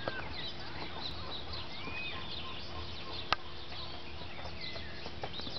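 Many birds chirping and calling in short, overlapping high notes, with one sharp click about three seconds in.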